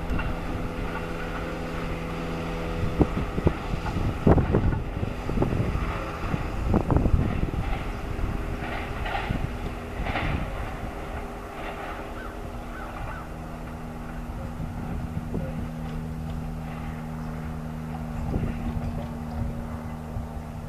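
Amtrak Auto Train's autorack cars rolling away down the track, wheels clattering over the rails in a run of knocks during the first third, then settling into a quieter, steady rumble as the train draws off.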